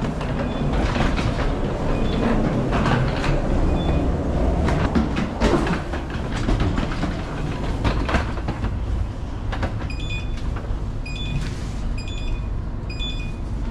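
Train running, heard from inside: a steady low rumble with frequent clicks and knocks from the wheels and rails. Near the end come four short two-pitch electronic beeps, about a second apart.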